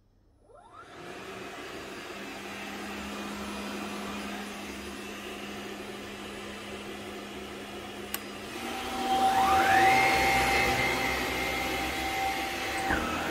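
Bosch upright vacuum cleaner switched on: its motor spins up quickly and runs with a steady hum. After a click about eight seconds in, the motor climbs to a louder, higher-pitched whine, which holds for a few seconds and then drops near the end.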